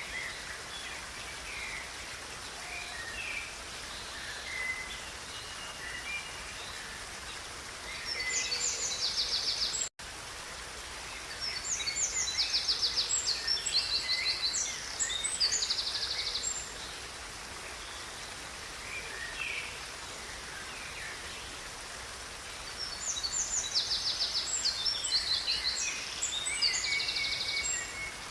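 River water running steadily while songbirds sing in bouts of rapid, trilled high notes, three bouts in all. The sound cuts out for an instant about ten seconds in.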